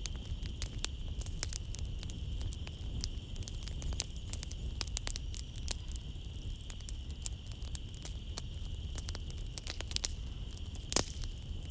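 Wood fire crackling in a fireplace: a continuous scatter of sharp pops and snaps over a low rumble, with one louder pop near the end. A steady high chirring of night insects runs underneath.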